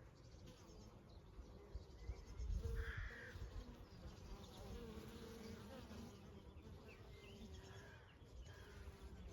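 Honey bees buzzing faintly as they fly past, their drone rising and falling in pitch. A brief low rumble, with a louder buzz, comes about three seconds in.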